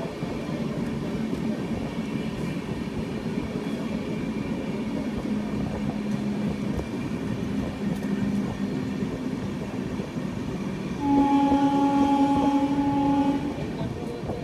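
Express train running along the track with a steady rumble. About eleven seconds in, a train horn sounds one long blast of about two and a half seconds.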